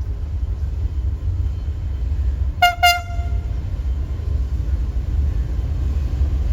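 Two short toots of a KTMB Class 26 diesel locomotive's horn about two and a half seconds in, the second ringing on slightly longer, over the steady low rumble of the freight train.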